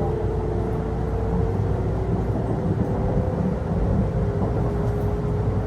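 Running sound inside a Kintetsu electric commuter train: a steady rumble of wheels on the track, with a thin motor whine that creeps slowly up in pitch as the train gathers speed.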